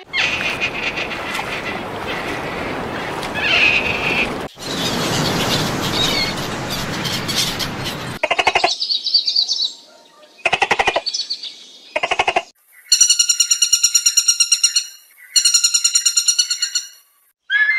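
Birds chirping over a steady hiss of background noise. Then a gull calls in three bursts of quick repeated notes, followed by two long runs of fast, high rattling bird notes.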